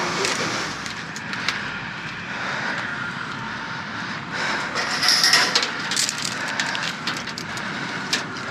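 Scattered light clicks and clatters, as of objects being handled, over a steady rushing background like traffic noise. The clicks come thickest about five seconds in.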